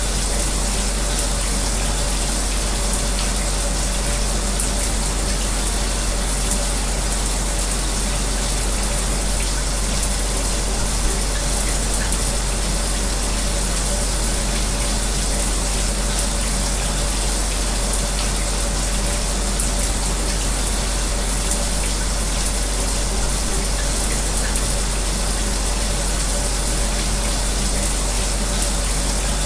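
Shower water spraying steadily, mixed with an electric fan running, with a faint steady hum under the hiss.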